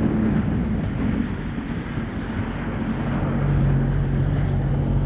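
Jet ski engine running, with wind buffeting the microphone and the rush of water. The engine note drops lower about three seconds in.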